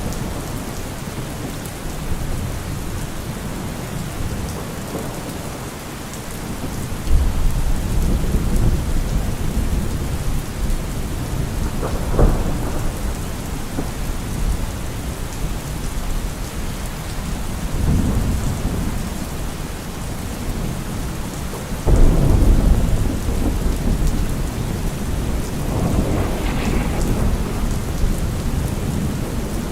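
Heavy rain drumming steadily on a car roof, with thunder rumbling several times, two rolls starting suddenly about a third of the way in and again about three-quarters of the way through.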